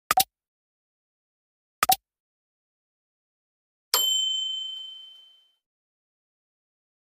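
Two short double clicks about two seconds apart, then a single bright bell-like ding that rings and fades out over about a second and a half.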